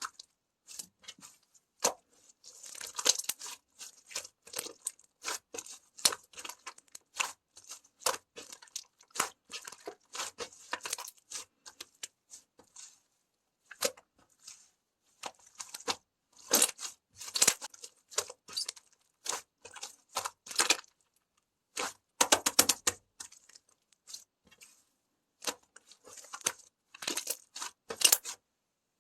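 Slime being squeezed, poked and stretched by hand, giving bursts of sharp popping and crackling clicks separated by brief pauses.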